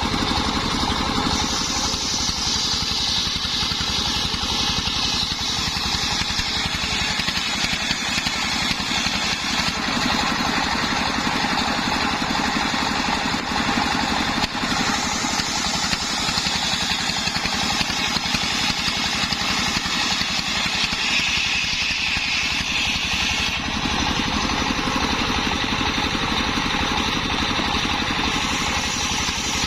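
Homemade circular saw machine running steadily, its blade ripping kenanga wood into boards; the high-pitched whine of the cut grows and fades several times over the steady drone of the drive.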